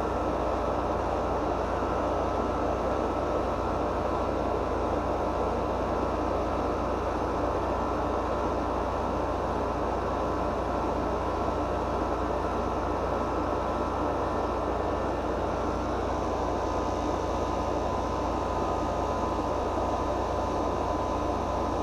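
Air conditioning unit running: a steady drone with a few constant tones in it. One higher tone drops out about sixteen seconds in.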